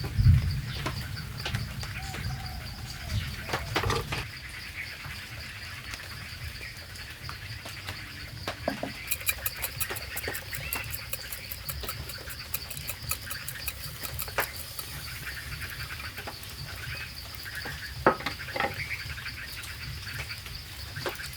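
Forest ambience with a steady, high, pulsing insect trill and scattered bird chirps. A fast run of high ticks comes about nine seconds in, and a few sharp knocks and clicks turn up now and then.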